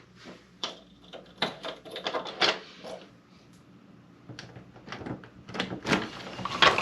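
A series of irregular clicks and knocks, like a door or latch being handled. They are tightly bunched in the first few seconds, pause, then pick up again near the end.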